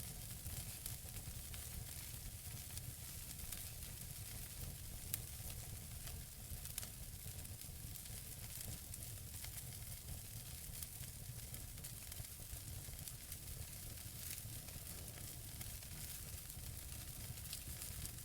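Wood fire burning in a fireplace: a steady soft hiss with scattered small crackles and pops, two of them sharper, a little after the middle.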